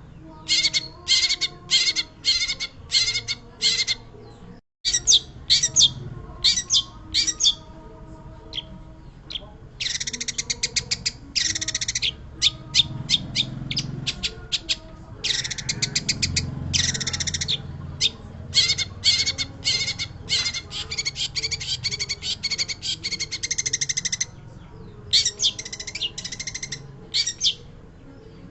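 Long-tailed shrike singing: run after run of rapid, harsh chattering notes, high-pitched, separated by short pauses, with a brief gap in the sound about five seconds in.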